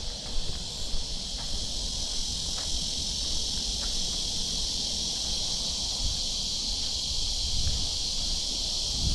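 A dense chorus of cicadas droning steadily, with faint footsteps on a path about once a second.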